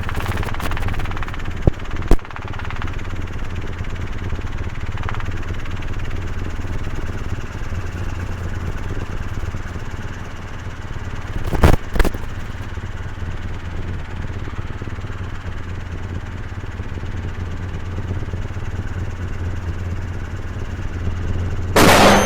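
Helicopter's engine and rotor drone heard from inside the cockpit, steady and low, as the helicopter is picked up off the ground. A few sharp clicks about 2 and 12 seconds in, and a brief loud burst with a high tone near the end.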